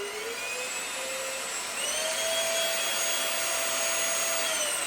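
Trucozie T350 cordless stick vacuum's motor running with a steady whine and rushing air, just after finishing its spin-up. About two seconds in, it steps up to a higher speed setting and a higher pitch, and it drops back to a lower speed near the end.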